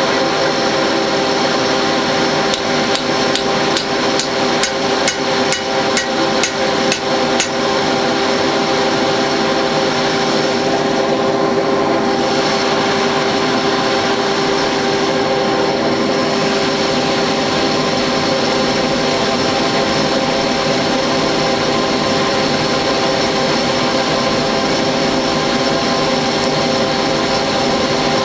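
A forge's electric blower running with a steady multi-toned whine. A little after two seconds in, about a dozen hammer blows come at roughly two a second and stop after seven or so seconds.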